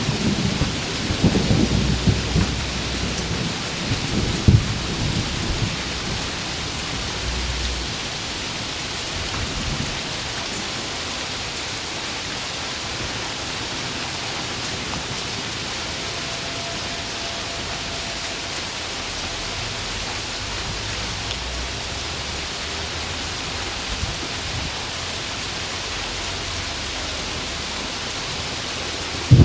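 Heavy rain falling steadily, with a low rumble of thunder rolling through the opening seconds and dying away about eight seconds in.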